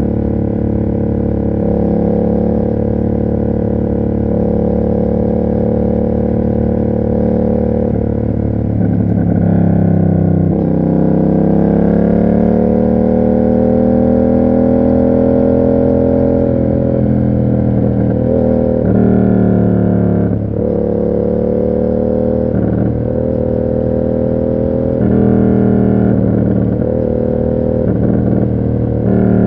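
Yamaha MT-07's 689 cc parallel-twin running through an SC Project aftermarket exhaust while riding. The engine note sinks about ten seconds in and climbs back, then changes pitch abruptly several times later on, as the revs rise and fall.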